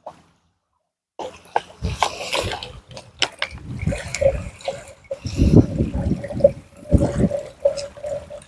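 Water splashing and lapping, with heavy low rumbles that come and go, typical of wind buffeting the microphone, and a steady hum from about four seconds in.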